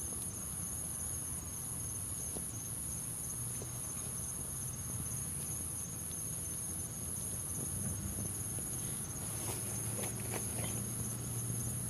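Crickets chirping in a steady high trill, with a few faint clicks near the end.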